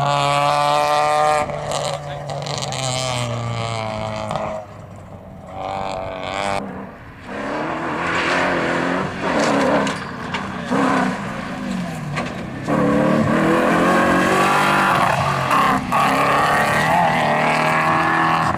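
Rally car engines at full throttle on a gravel stage, with the revs repeatedly climbing and dropping through gear changes and lifts. The sound grows loudest and stays there over the last six seconds.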